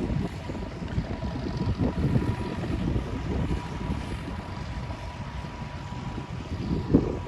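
Engine of ploughing machinery running with an uneven low rumble, plus a faint steady whine.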